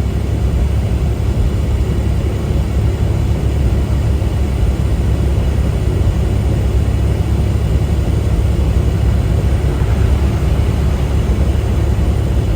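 Steady low rumble of a semi-truck driving, its engine and road noise heard from inside the cab.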